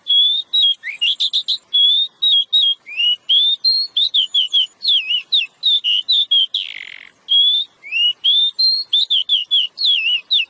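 A songbird singing a rapid, continuous run of short, varied whistled notes and slurred phrases, with one brief harsh rasp about two-thirds of the way through.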